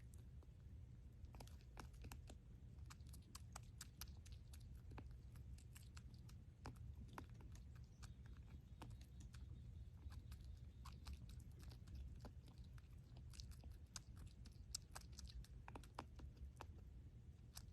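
An animal chewing: faint, irregular crunching clicks over a low steady hum.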